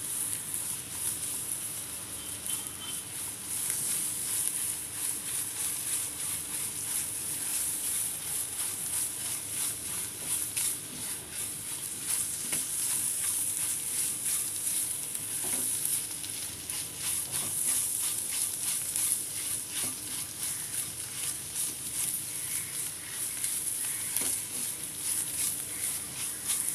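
Scrambled egg frying in oil in a non-stick wok, sizzling steadily, with the frequent light scrape and tap of a silicone spatula stirring and breaking it up.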